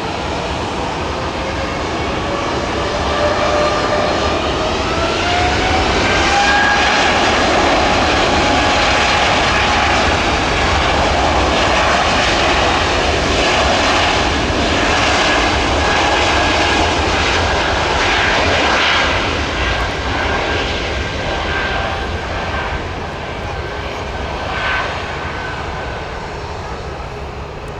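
Airbus A220-300's Pratt & Whitney PW1500G geared turbofans at take-off power. A whine rises in pitch over the first several seconds as the engines spool up, holds loud and steady, then fades over the last several seconds as the jet moves away.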